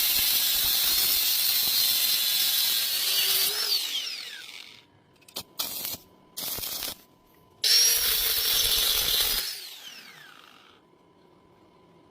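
A handheld power tool runs at full speed with a high whine over loud grinding noise, then winds down with its pitch falling. A few short bursts follow, then a second full-speed run that also winds down.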